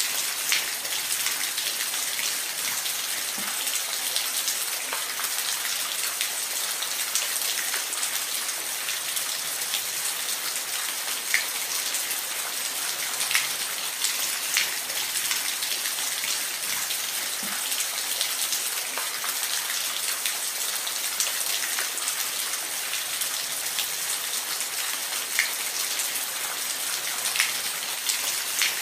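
Steady rain falling on a surface, with a constant hiss and scattered individual drops ticking louder now and then.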